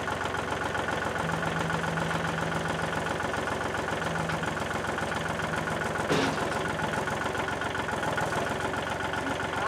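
Loader's engine running steadily at idle as the bucket is raised to lift an engine, with a sharp knock about six seconds in.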